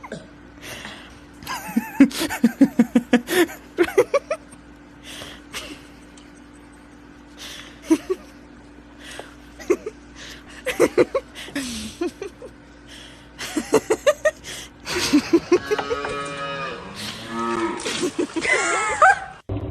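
Animal calls: a quick run of short pitched calls about two seconds in, scattered single calls after, and longer wavering calls near the end.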